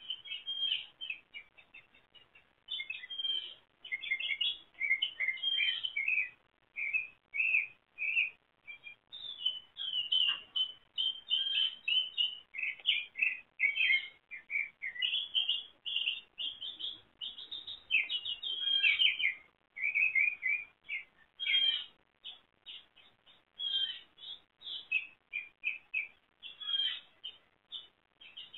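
Songbird singing outdoors: quick chirping and whistled phrases, one after another, with short pauses between them.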